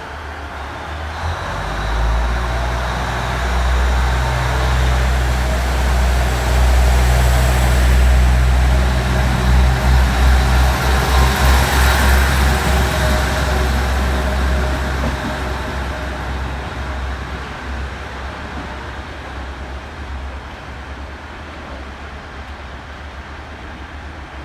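KiHa 110 series diesel railcar's engine throttling up for departure about two seconds in, running hard with a deep throb, then easing back gradually over the last several seconds as the railcar pulls away.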